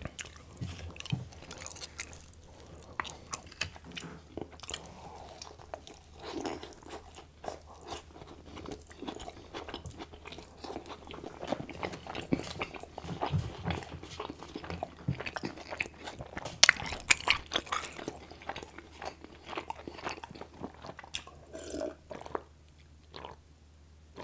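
Close-miked chewing of breaded fried chicken: irregular crunching and wet mouth clicks, busiest and loudest about two-thirds of the way through, then thinning out near the end.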